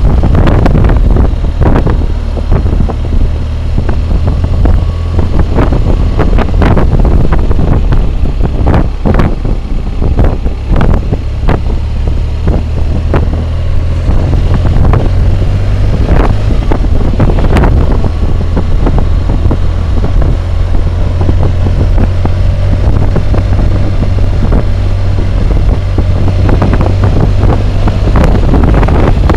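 Loud wind roar and buffeting on the microphone of a helmet-mounted camera on a moving BMW motorcycle, with the engine running underneath.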